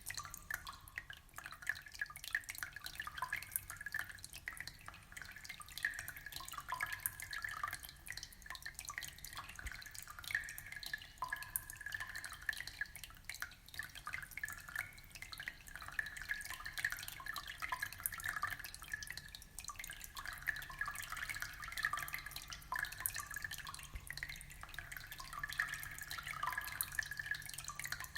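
Aquarium water trickling steadily, with many small drip-like splashes.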